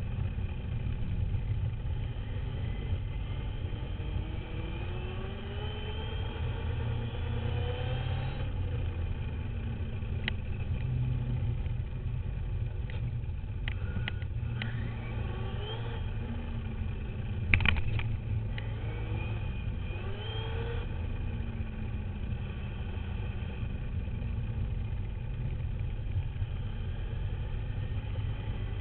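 Duratrax RC dirt bike riding, heard from a camera mounted on the bike: a steady low rumble, with the motor's whine rising in pitch as it speeds up twice, about five seconds in and again about twenty seconds in. A few sharp knocks come in the middle, the loudest about seventeen seconds in.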